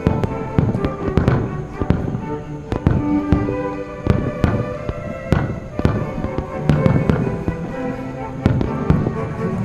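Fireworks bursting in rapid, irregular succession, many bangs and crackles a second, over orchestral background music from the live broadcast.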